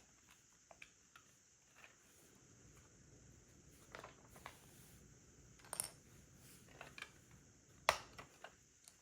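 Small plastic LEGO pieces clicking and clattering while being handled and fitted together: sparse, irregular light taps, with the sharpest about six and eight seconds in.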